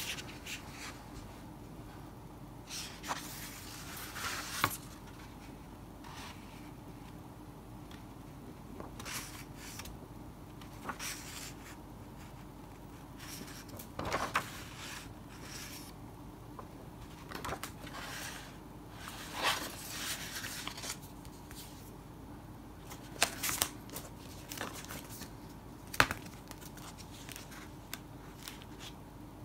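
Paper being handled: sheets and envelopes of a letter set rustling and crinkling in short scattered bursts, with a few sharp crisp taps.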